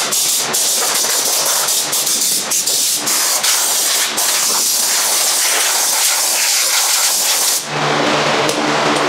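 A steady, loud hiss, like air or liquid spraying under pressure, that cuts off about three-quarters of the way in and gives way to a steady hum with several even tones.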